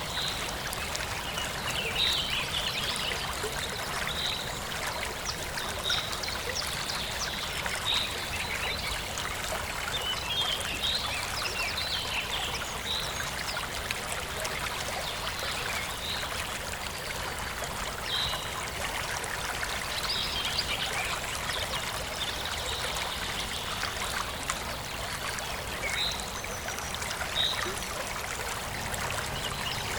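Forest stream flowing and trickling steadily, with birds chirping in short calls every second or two.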